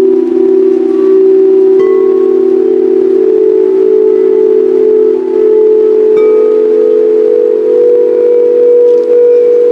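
Singing bowls ringing in overlapping sustained tones that hold steady throughout, with fresh strikes adding new higher tones about two seconds and six seconds in.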